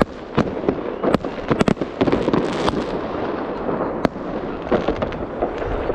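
New Year fireworks going off: many sharp bangs at irregular intervals over a continuous crackle, with a quick cluster of reports between one and two seconds in.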